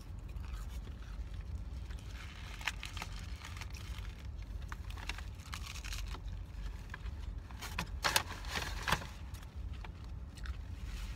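Close-up chewing and biting into a lettuce-wrapped burger, the crisp lettuce crunching in short crackles with a few sharper crunches, over a steady low hum.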